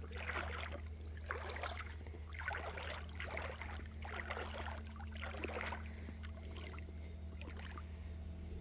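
Footsteps wading through shallow creek water, splashing about once a second, stopping about six seconds in, over a steady low hum.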